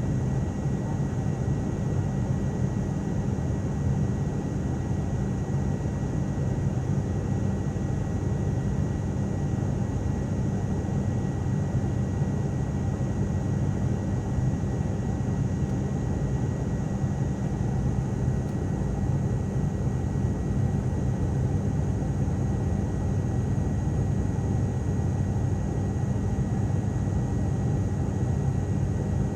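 Cabin drone of an ATR turboprop airliner in flight: the steady hum of its engines and propellers under a constant airflow hiss.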